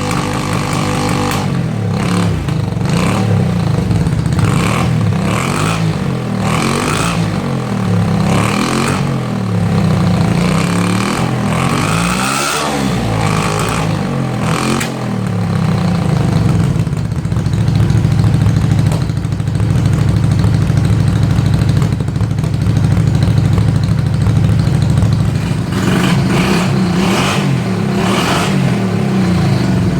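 A 1995 Honda Magna's 250cc V-twin engine running on choke, blipped up and down in pitch through the first half, then held at a steady speed. The engine is running while it is being checked for exhaust smoke from a cylinder misfire.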